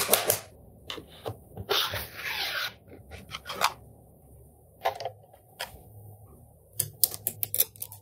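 Small magnetic balls clicking as they snap together one by one, with a short scraping rustle about two seconds in and a quick run of clicks near the end.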